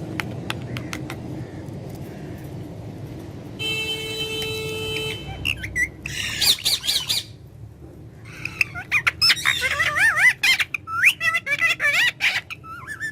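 Pet parrot squawking and chattering in rapid warbling whistled calls, first in a short burst about halfway in, then almost continuously through the last few seconds. Before that, a low rumble and a steady horn-like tone of about a second and a half.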